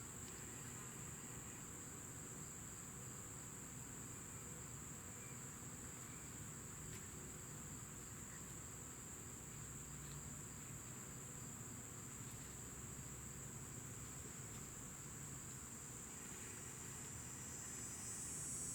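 Faint, steady high-pitched chirring of crickets, with a low background hum and a few soft clicks of handling.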